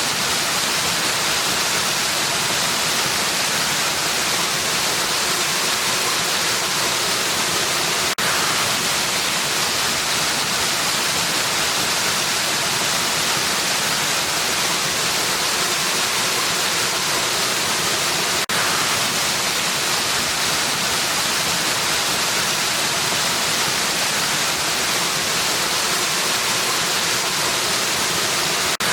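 Steady rushing of a waterfall, an even hiss of falling water. The level dips very briefly three times, about ten seconds apart.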